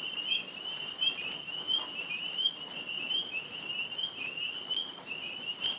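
A chorus of tree frogs calling: short chirps repeating several times a second at a steady high pitch, overlapping without a break.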